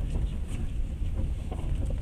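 Passenger train running, heard from inside the carriage: a steady low rumble with running noise from the wheels and rails.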